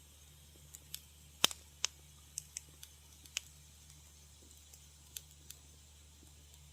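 Wood fire crackling in a fireplace: sharp, irregular pops and snaps, thickest in the first half, with the loudest snap about one and a half seconds in, over a steady low hum.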